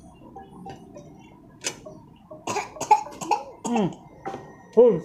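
A young child's voice making a string of short vocal sounds, two or three a second, each rising and falling in pitch, the loudest just before the end. Before that there are only a few faint clicks.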